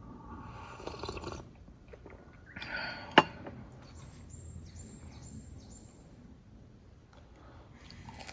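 Handling noises, then one sharp knock or click about three seconds in, the loudest thing in the stretch.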